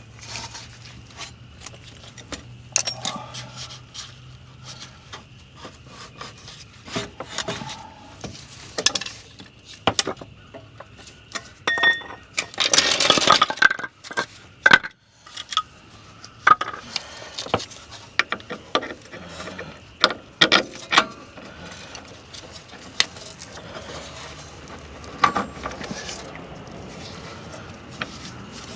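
Metal car parts and hand tools clinking, tapping and knocking during hand work on the rear wheel hub assembly. The sounds are scattered, with a louder, longer rattling noise of about a second and a half around thirteen seconds in.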